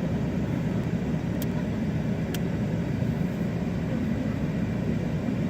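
Steady low rumble of a car, with two faint, sharp high ticks about a second apart near the middle.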